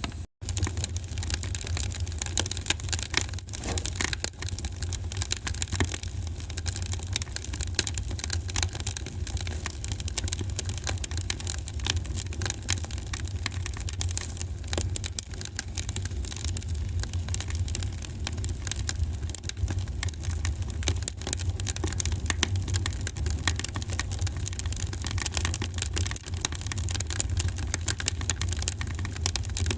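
Wood fire in a fireplace crackling and popping steadily over a low rumble of the flames, with a momentary dropout just after the start.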